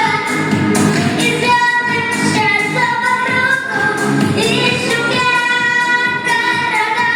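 A woman singing a melody with long held notes over instrumental accompaniment.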